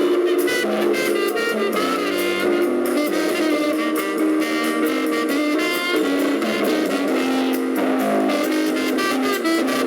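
Live jazz band playing, with horns carrying the tune over drums.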